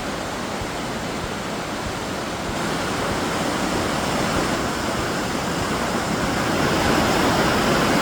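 Steady rush of river water flowing through the rocky gorge, slowly growing louder.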